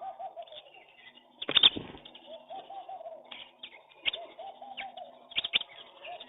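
Pigeons cooing: three runs of low, rising-and-falling coo notes, with short sharp clicks and chirps between them and one loud sharp clatter about a second and a half in.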